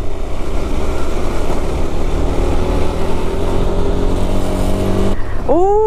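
KTM 390 Adventure's single-cylinder engine running under way, with steady wind and road rumble. Its note climbs slowly over a couple of seconds from about halfway through, then drops away abruptly near the end.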